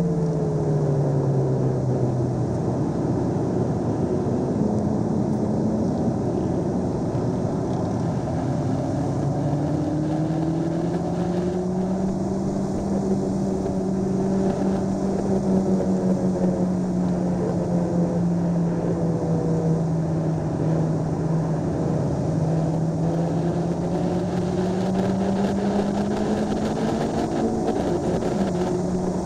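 Honda Civic Si's four-cylinder engine under track driving, heard from inside the cabin: its note drops in pitch in the first couple of seconds, then rises and falls as the car runs through the corners, over a steady rush of road and wind noise.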